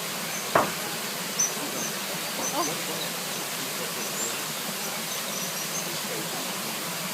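Steady outdoor background hiss with short, high chirps from small nest-building birds repeating throughout, and a single sharp click about half a second in.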